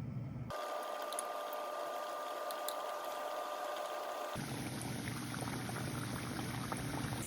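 Hot oil sizzling as besan batter for pakoras fries, in cut-together clips. From about half a second to about four seconds in, a steady hum sits under the sizzle.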